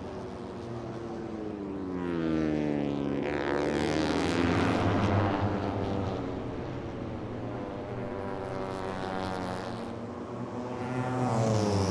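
Moto3 race motorcycle engine, a 250 cc single-cylinder four-stroke, running at high revs. Its pitch drops about two to four seconds in as the bike slows or passes, then climbs again near the end as it accelerates.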